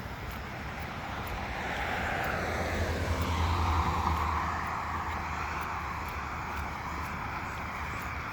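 A vehicle passing by: its noise swells to a peak about four seconds in, dropping in pitch as it goes past, then fades off over a low rumble.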